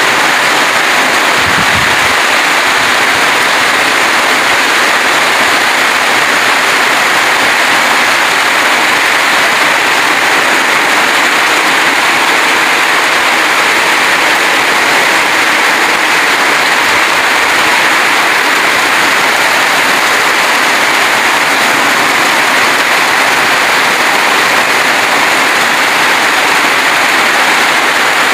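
Heavy rain pouring down in strong wind, a loud, steady hiss with no let-up, drumming on a zinc sheet roof.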